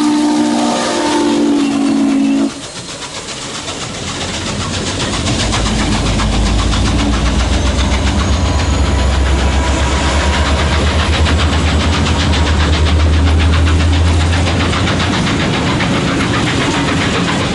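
Norfolk and Western 611's steam chime whistle sounding a chord, cut off abruptly about two and a half seconds in. A passing train follows: a Norfolk Southern diesel locomotive's engine drones low as it rolls by, then passenger cars run past with a rapid clicking of wheels on rail.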